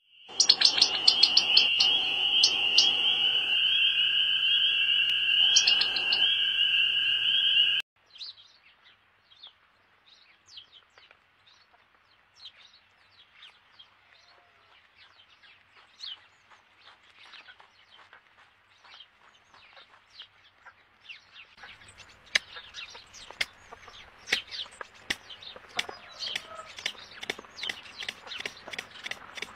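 Bird sounds: a loud, steady, high trill that cuts off suddenly about eight seconds in. It is followed by a long run of faint, quick chirps and clicks that grow louder near the end.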